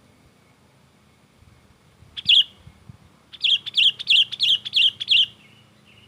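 Sooty-headed bulbul giving agitated calls of the kind used to lure other bulbuls. There is one sharp call about two seconds in, then a quick run of about six calls a second later.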